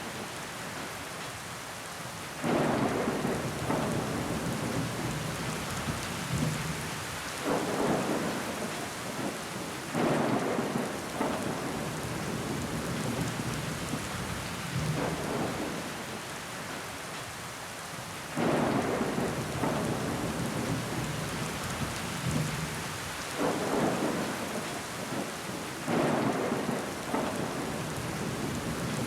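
Steady rain falling against a window glass, with water trickling down it. Six times, a louder swell comes in suddenly and fades over a second or two.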